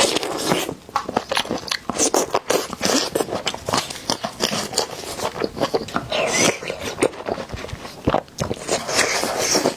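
Close-miked eating sounds: a steady run of crunchy bites and chewing, with sharp crackles like a hard sugar coating breaking.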